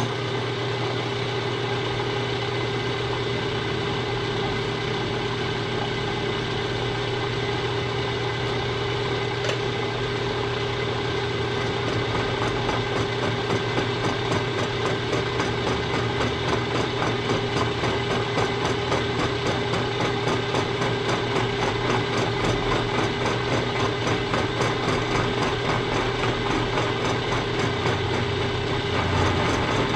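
Machine tool running the last cutting pass on a hit-and-miss engine frame: a steady motor and spindle hum with several tones, starting right at the beginning. From about twelve seconds in, a regular pulsing beat comes in.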